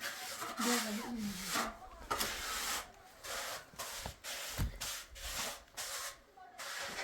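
Repeated rough scraping or rubbing strokes of a hand tool on a hard surface, irregular, about one or two a second.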